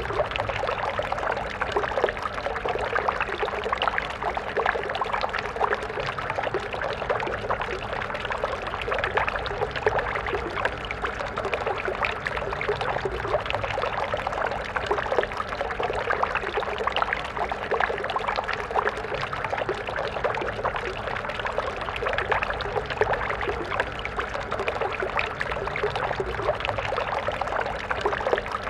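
Stream water flowing and splashing steadily, a busy burbling with many small splashes.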